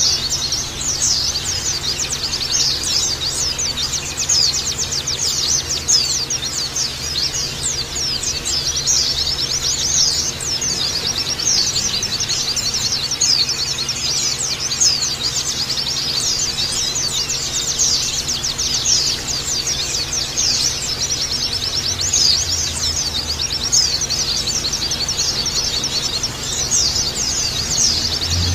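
Many white-eyes (pleci) chirping together in a dense, unbroken twitter of high, quick, downward-sweeping chirps.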